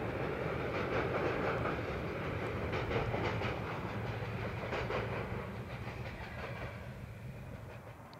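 Freight train of loaded pipe wagons rolling across a steel viaduct: wheels clicking over the rail joints above a steady low rumble, fading away over the last few seconds.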